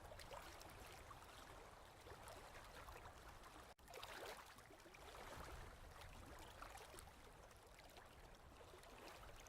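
Faint recorded ocean waves washing, a low, steady rush with small crackles. It cuts out for an instant just under four seconds in, then swells again.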